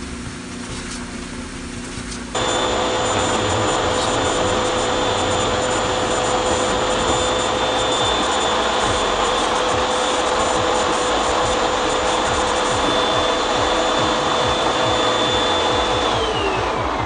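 Clothes dryer running with a loud rushing, rubbing noise and a steady whine, the noise of its metal parts touching before the fix. It comes in suddenly about two seconds in, after a quieter steady hum, and near the end its pitch falls as the machine winds down.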